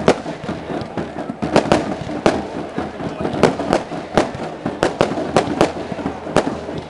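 Aerial firework display: an uneven string of about a dozen sharp bangs from shells bursting overhead.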